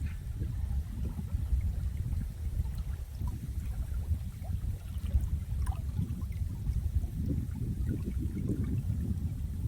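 Flowing water: a low, uneven rushing, with faint small splashes over it.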